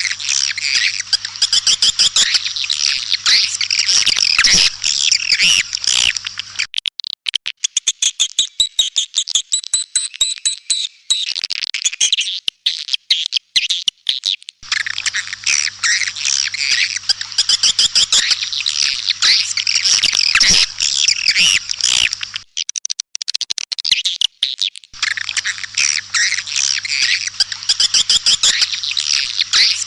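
Edible-nest swiftlets twittering in a dense, high-pitched mass of chirps, as played in a swiftlet-house lure recording. The twittering thins to sparser, clickier chirps with thin steady whistles from about 7 to 14 seconds and briefly again around 23 seconds, then returns as dense as before. A faint low electrical hum runs under the dense passages.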